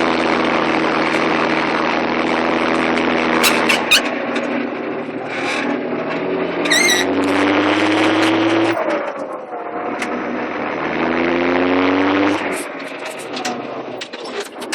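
Fendt Favorit 816 Turboshift tractor's turbocharged six-cylinder diesel working under load. The engine note rises twice and drops back sharply each time, once just before the middle and once near the end. A brief warbling high whistle comes about seven seconds in.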